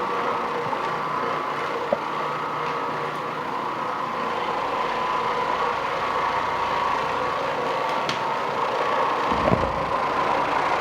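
Oreck Orbiter floor machine running steadily with its nylon carpet brush, the motor giving a constant hum as the brush scrubs the carpet. There is a brief click about two seconds in and a low thump near the end.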